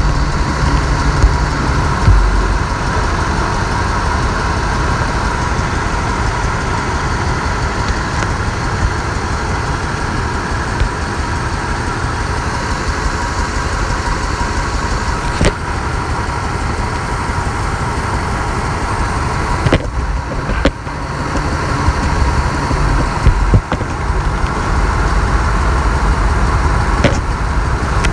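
Ford 4.6L V8 idling rough with a misfire on cylinder 5, caused by a fuel injector that is not pushed in all the way. A few sharp clicks sound now and then over the steady running.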